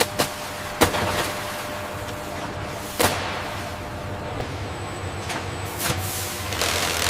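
A handful of sharp knocks, like panels or doors being shut, over a steady low hum: two quick ones at the start, the loudest a little under a second in and again at about three seconds, and a lighter one near six seconds.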